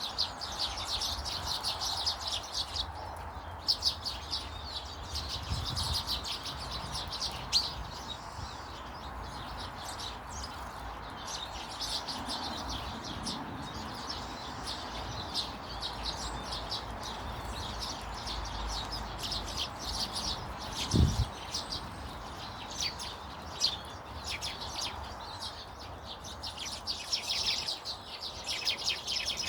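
Small garden birds chirping and twittering almost without a break, many short calls overlapping. A single low thump comes about two-thirds of the way through.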